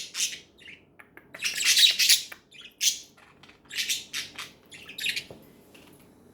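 Budgerigars chirping in a series of short, high calls, stopping about five and a half seconds in.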